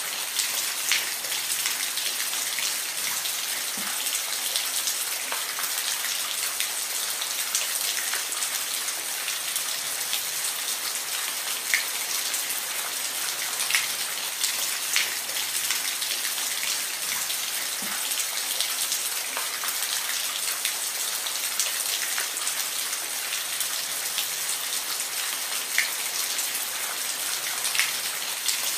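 Steady rain falling, with scattered individual drops ticking now and then on a nearby surface.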